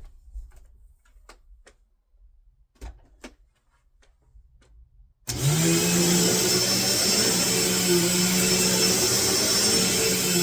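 A few faint clicks and knocks, then about five seconds in a Eureka Lightspeed 4750A-2 upright vacuum cleaner is switched on. Its motor spins up quickly and then runs steadily.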